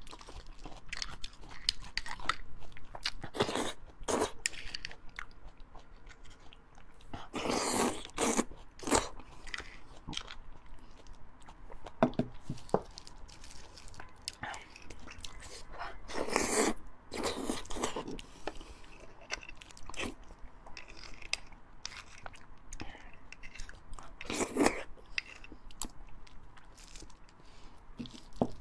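Close-miked chewing and biting of fatty beef bone marrow: wet mouth clicks throughout, with a few louder stretches.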